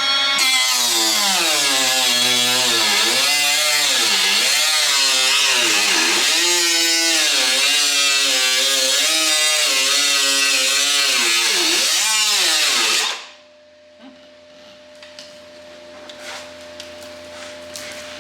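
Handheld power tool running at high speed with a loud whine whose pitch sags and recovers again and again as it is pressed into the work and eased off. It stops about two-thirds of the way through, leaving a faint steady hum and a few light clicks.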